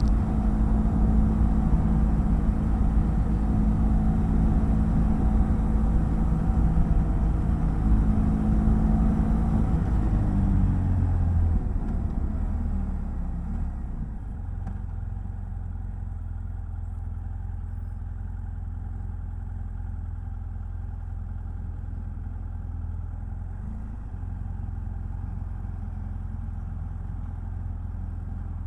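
BMW F800GS parallel-twin engine running under way, then falling in pitch and level as the bike slows from about ten to fourteen seconds in, and settling into a steady low idle.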